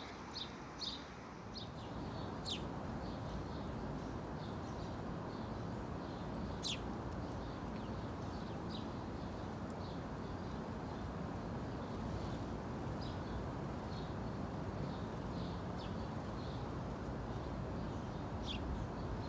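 Small birds chirping: short high chirps repeating about every second, with a few sharper sweeping calls, over a steady low background noise.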